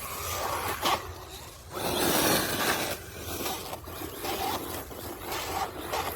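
A 1:16 scale 4WD RC car driving over rough ground, its tyres scraping and scrabbling in uneven surges, loudest for about a second around two seconds in.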